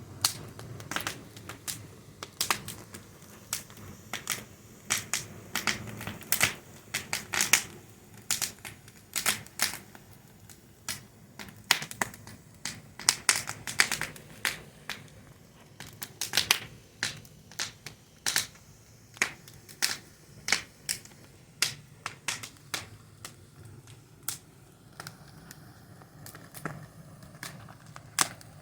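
Wood fire crackling: irregular sharp pops and snaps, several a second, over a soft low rumble of burning.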